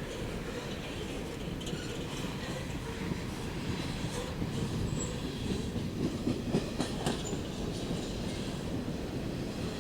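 Train cars rolling along the rails with a steady rumble. A cluster of sharp wheel clacks comes about six to seven seconds in, with a few brief high squeals from the wheels.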